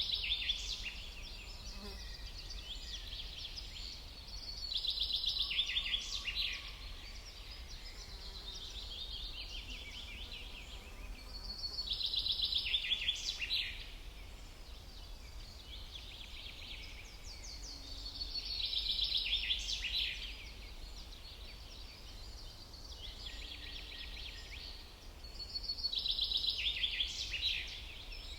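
A songbird singing a fast, stuttering trilled phrase about two seconds long, repeated about every seven seconds, over a steady low rumble.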